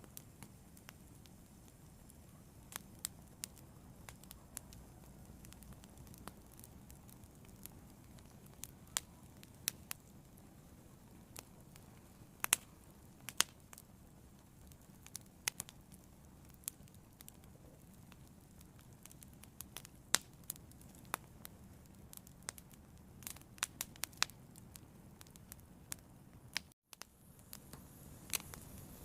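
Fire burning, crackling with irregular sharp pops over a low steady rumble. The sound cuts out for a moment near the end.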